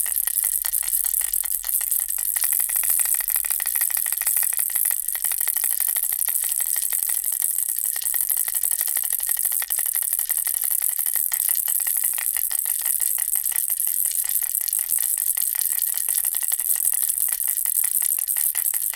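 Bear-and-ball baby rattle shaken continuously: a dense, fast, high-pitched rattling that stays steady in level.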